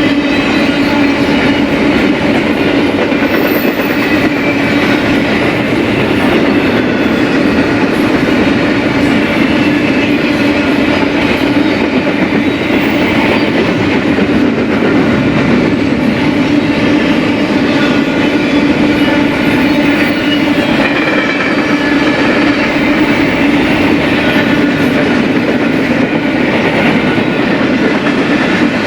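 BNSF freight train rolling past, a loud, steady run of wheels on the rails.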